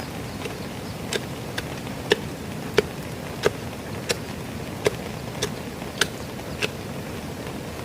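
Steady rain with a series of about ten sharp knocks, roughly one and a half a second, starting about a second in and stopping near the end.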